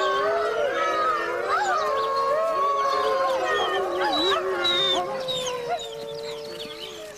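Grey wolf pack chorus-howling: several long, overlapping howls with shorter, higher wavering calls over them. It fades away over the last couple of seconds.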